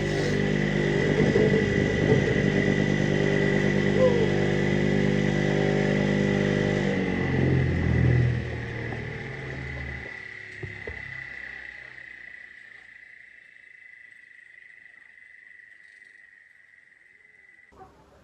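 A small engine running steadily, shifting lower a little past the middle and then fading away as it moves off or winds down. A thin steady high tone continues after the engine fades, then cuts off suddenly near the end.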